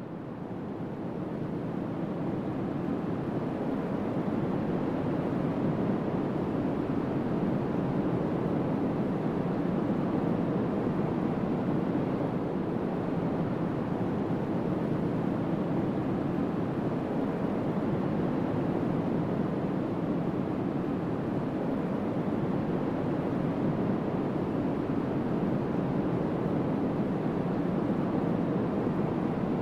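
Strong wind blowing across the microphone: a steady, low rushing noise that swells over the first couple of seconds and then holds.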